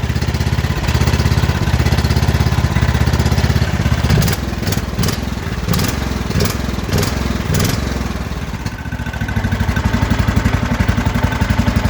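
Cub Cadet XT1 Enduro garden tractor engine running just after a cold start, revved in several quick blips from about four to eight seconds in, then settling back to a steady run. A few sharp clicks come during the revving.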